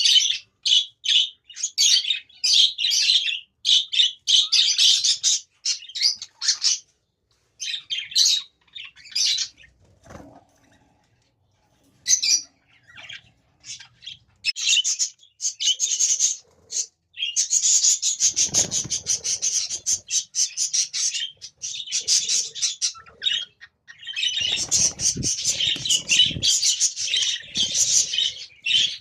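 A flock of small birds chirping and chattering in dense runs of short, high calls, with a lull of a couple of seconds about a third of the way through.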